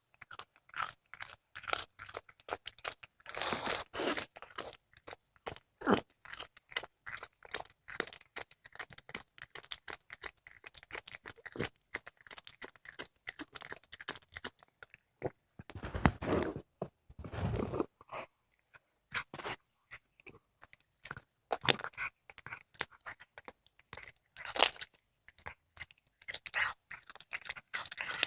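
A cat chewing and crunching through a squirrel it is eating: a dense run of wet, irregular crunches and bites, with louder spells of crunching about four seconds in and again just past halfway.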